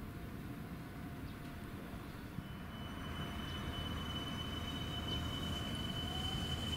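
Approaching train: a rumble growing steadily louder, joined about two and a half seconds in by a thin, steady high whine that strengthens as it nears.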